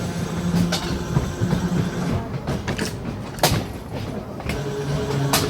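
Electric tram running along its track: a steady low hum with a few sharp knocks and clicks from the wheels and car body, the loudest about three and a half seconds in.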